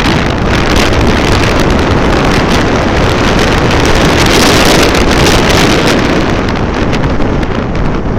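Heavy wind buffeting the microphone while travelling at speed, a loud, steady rushing noise that swells slightly about halfway through.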